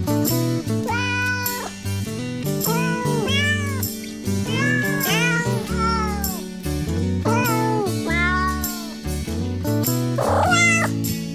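Week-old kittens mewing over and over, short high cries that rise and fall, about one a second, over background music with steady low notes.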